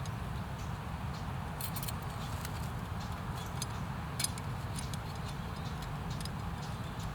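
Wood campfire crackling: irregular small snaps and pops over a steady low rumble, with one sharper snap about four seconds in.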